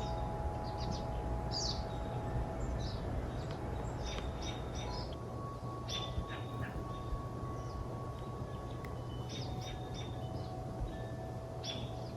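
Forest songbirds singing, with short chirps and trilled phrases repeating over and over, against a steady low hum and a few long held tones.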